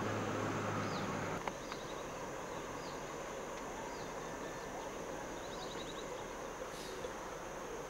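Outdoor field ambience of insects droning steadily, with short high chirps repeating about once a second and a brief trill near the end. A low steady hum stops about a second and a half in.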